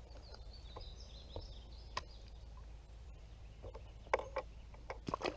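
A small bird twitters in a quick run of high chirps for the first two seconds or so. About four seconds in comes a scatter of sharp knocks and clicks, the loudest near the end.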